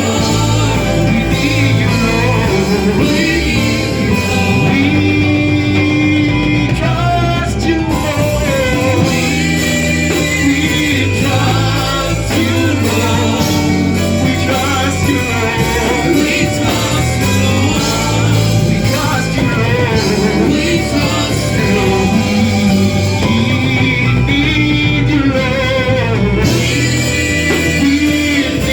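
Gospel worship music from a church band, with singing voices over a steady bass line and instruments.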